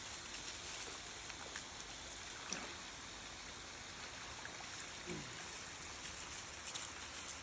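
Steady outdoor hiss like running water, with scattered faint ticks and a couple of brief low falling sounds, about two and a half and five seconds in.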